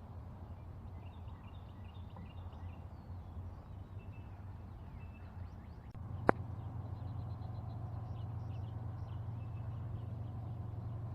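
Small songbirds chirping and twittering over a steady low rumble of distant highway traffic, the rumble getting louder about six seconds in. A single sharp click comes just after that.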